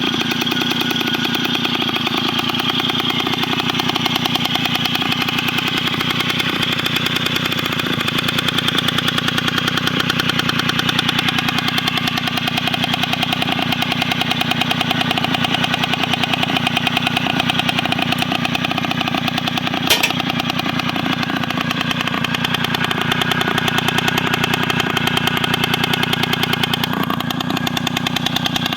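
Puch E50 two-stroke single-cylinder moped engine idling steadily, with one sharp click about two-thirds of the way through.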